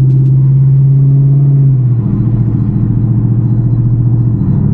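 Car engine and exhaust droning loudly while driving, heard inside the cabin. The steady low tone drops slightly in pitch about two seconds in and takes on a fast pulsing beat, as the throttle or gear changes.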